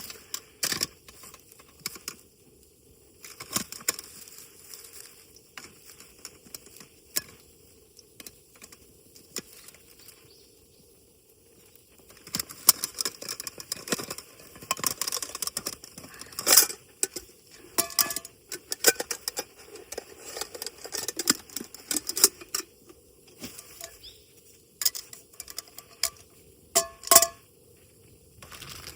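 Scattered clinks and knocks of small metal items being handled, busier in the second half, with a few brief ringing clinks.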